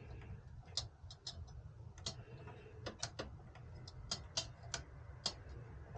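A dozen or so light, irregular clicks and taps, some in quick pairs, over a low steady hum.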